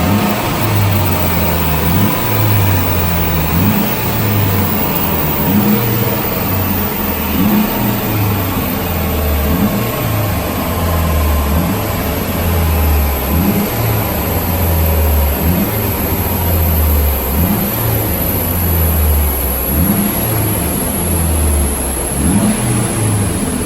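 Turbocharged Honda K20 four-cylinder engine in a Mitsubishi Colt running loud, its revs rising and falling repeatedly.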